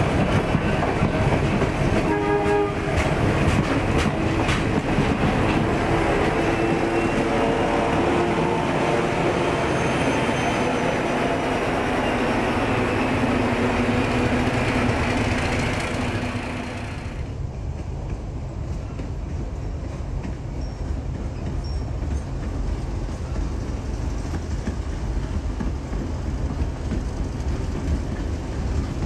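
Diesel-hauled narrow-gauge train running, with wheels clattering and the locomotive's horn sounding in held tones. About seventeen seconds in, the bright clatter cuts off abruptly and a duller, lower rumble carries on.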